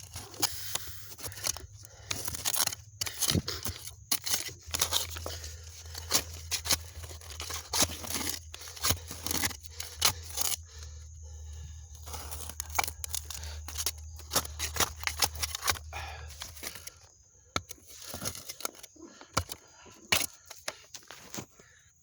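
Digging by hand in bottle-dump soil: irregular scraping and crunching of a tool through dirt and debris, with a low steady hum underneath that stops about two-thirds of the way through.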